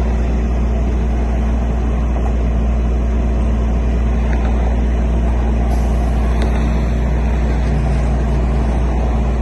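A vehicle engine running steadily, a heavy low rumble that keeps an even level with no rise or fall in pitch.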